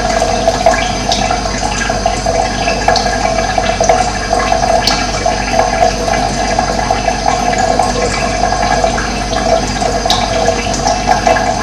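Steady rushing of running water, with a few brief high bird chirps over it.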